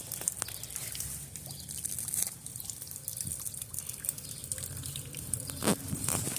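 Rain falling and dripping, with a steady hiss and scattered sharp drop taps.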